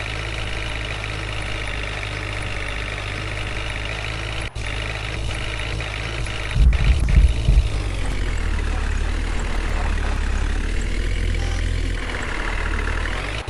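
A heavy diesel engine running steadily, with a louder low rumble about halfway through and its pitch sagging and rising again near the end.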